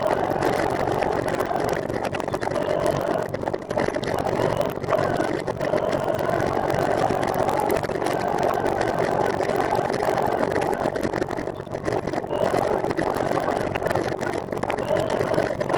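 Steady rushing ride noise from a recumbent trike rolling along, with a constant engine-like drone and a few brief dips in level.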